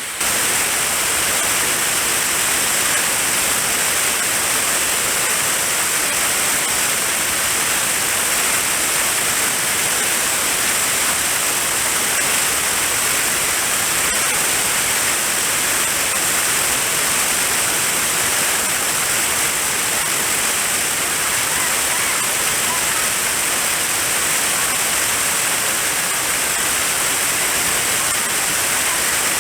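Steady rush of a mountain stream's flowing water, cutting in abruptly at the start and holding even throughout.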